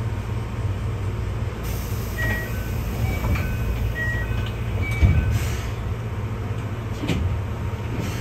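Keihan 600-series electric train running along the track: a steady low rumble, with a few short high electrical tones in the middle and a single knock about five seconds in.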